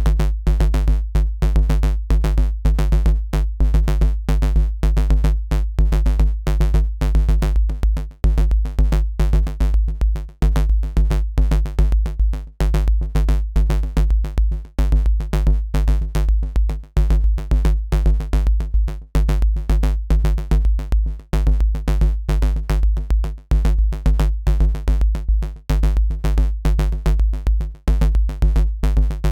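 Dirty FM synth bass riff patched from Bitwig Polygrid modules, looping over a programmed drum-machine beat. A deep sub-bass holds under a fast run of bass notes and gaps briefly about every two seconds as the loop repeats.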